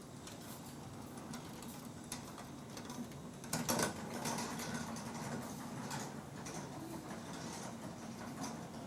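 Scattered clicks and knocks of objects being handled, with a brief louder clatter about three and a half seconds in, over a steady low hum.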